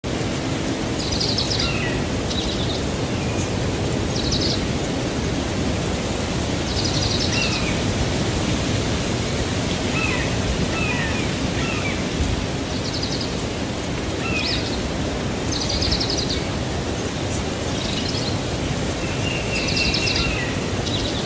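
Small birds calling in short chirps and buzzy trills, repeated every second or two, over a steady loud rushing noise.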